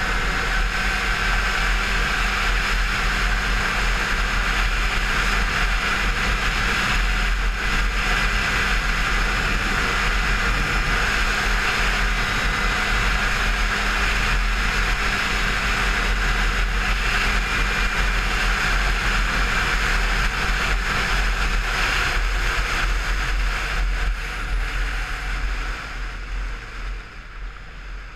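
Derbi Senda 50 SM DRD Racing's 50 cc two-stroke single running at steady high revs, with wind rush over the camera. The engine eases off in the last few seconds as the bike slows.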